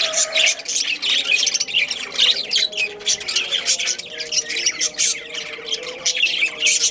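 Budgerigars chattering, with many quick, overlapping chirps and squawks in constant warbling.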